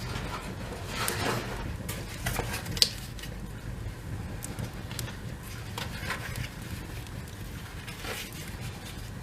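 Small fire of cardboard, paper and dry twigs in a fireplace: irregular crackles and rustles, with one sharp snap about three seconds in.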